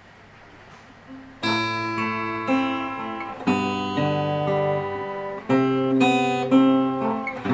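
Acoustic guitar strumming chords, struck roughly once a second, beginning about a second and a half in after a quiet pause: the instrumental intro of a song.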